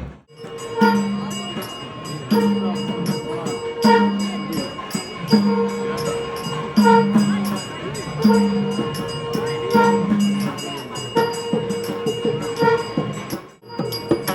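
Temple procession music: rapid, steady metallic jingling strokes over a short low tune that repeats about every one and a half seconds. The sound drops out briefly just after the start and again near the end.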